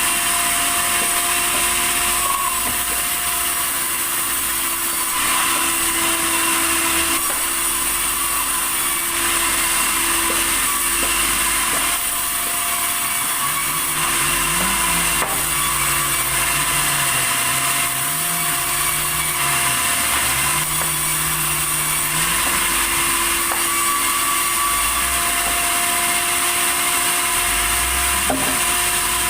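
Sawmill saw running steadily through timber, a continuous high whine and hiss. A lower tone wavers up and down in the middle.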